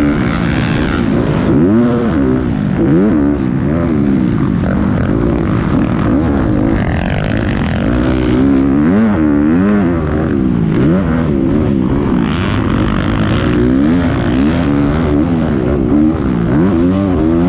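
Several motocross bikes racing around a track, their engines revving up and dropping off again and again, with the pitches of different bikes overlapping.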